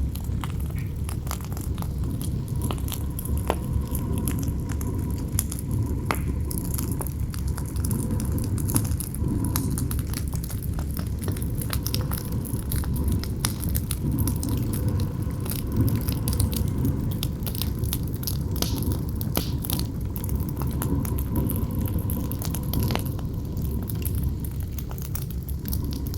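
Campfire crackling and popping with frequent sharp snaps, over a steady low rumble of wind.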